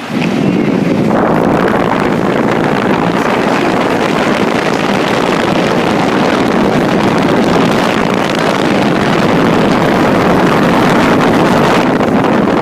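Running Lennox central air conditioner condensing unit, close to the microphone: a loud, steady rush of fan air that starts suddenly and buffets the mic.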